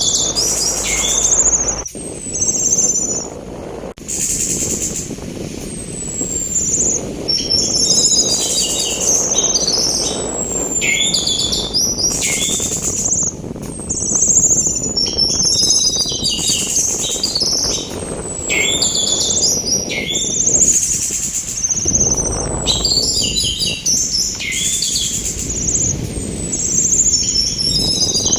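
Orange-headed thrush (anis merah) singing: repeated phrases of rapid chirps and high, falling whistles every second or two, a mix of rattling runs and sharp notes. The song sits over a steady rush of sea wind.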